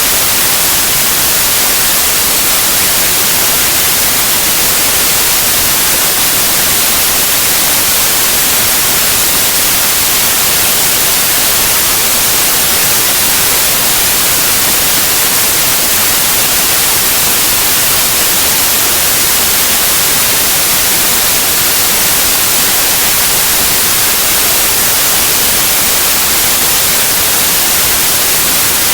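Steady, loud synthetic white noise, an even hiss brightest in the high frequencies, with no change over time.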